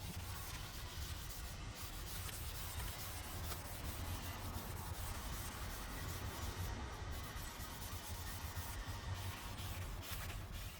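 Green scouring pad of a dish sponge rubbing in straight strokes along the grain of a brushed stainless-steel fireplace lid, scrubbing off the yellowed heat discolouration. A steady, fairly faint scratchy rubbing over a low hum.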